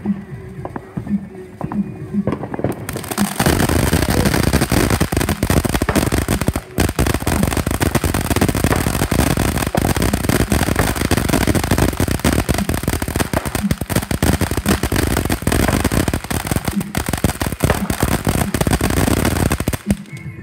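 Fireworks crackling: a dense, loud run of rapid pops that starts about three seconds in, goes on for some seventeen seconds and stops suddenly near the end. Music with a steady beat plays faintly before it starts.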